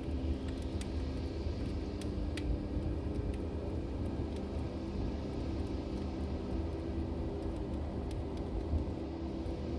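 Log fire burning in a fireplace: a steady low rumble with scattered sharp crackles and pops, a few close together in the first few seconds and more near the end.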